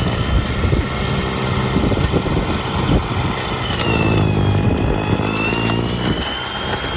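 An engine running with its speed and load wavering, and a high whine that falls and rises again about four seconds in.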